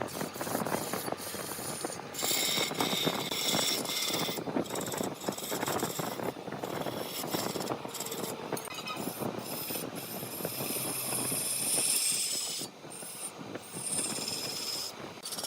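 Large wood lathe running while a cutting tool works the spinning wood, giving a dense, busy rattling and scraping. A brighter hiss rises over it from about two to four seconds in and again from about nine to twelve seconds in.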